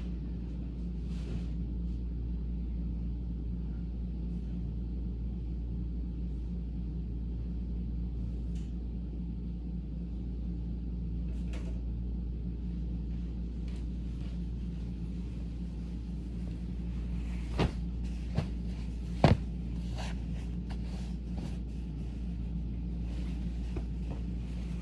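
Steady low drone of a vacuum cleaner running in another part of the room, with scattered light handling noises and a few sharp knocks about two-thirds of the way through, the loudest of them a single knock.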